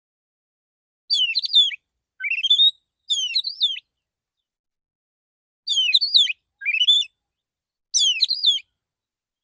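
Male Oriental magpie-robin (kacer) singing a relaxed calling song: six short whistled phrases of sliding, warbling notes in two groups of three, used as a lure to call other magpie-robins.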